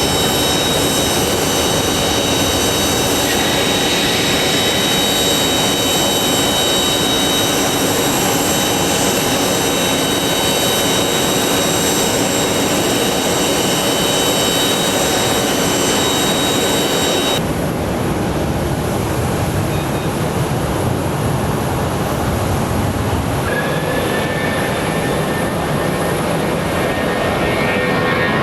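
Airbus A319 jet engines running: a steady high whine over a broad rush. About two-thirds of the way through the sound changes abruptly to a duller rush without the high whine, and a new whine rising slightly in pitch comes in near the end.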